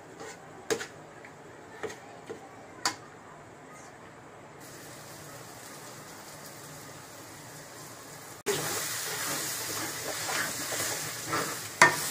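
Eggs and onion masala frying in an aluminium kadai: a low, steady sizzle with a few light clicks of a metal spatula against the pan in the first few seconds. About two-thirds of the way through the sizzle turns suddenly louder, and near the end the spatula scrapes and knocks as the mixture is stirred.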